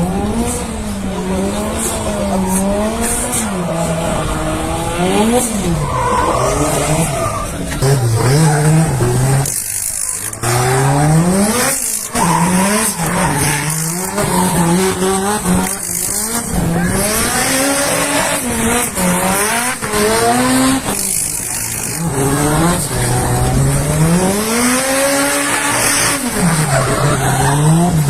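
Turbocharged 2AZ-FE inline-four in a drifting Toyota AE86, revving up and down continuously, with brief lift-offs several times, over tyres squealing as the car slides.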